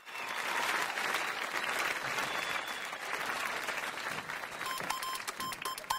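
Applause: many hands clapping, starting abruptly. Short electronic beeps join in near the end.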